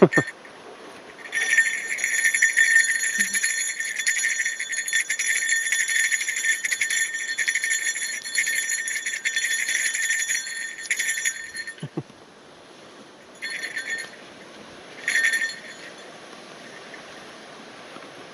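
Bear bell jingling steadily for about ten seconds, then two short jingles near the end, rung to warn bears off the trail.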